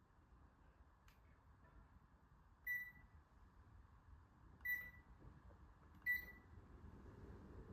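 Three short, high electronic beeps, the second about two seconds after the first and the third about a second and a half after that, over a faint low background hum. A faint click comes about a second in.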